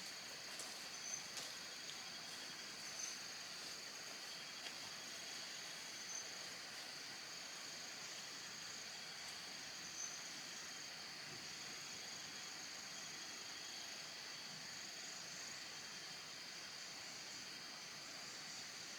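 Steady high-pitched chorus of insects, with a few faint knocks during the first ten seconds.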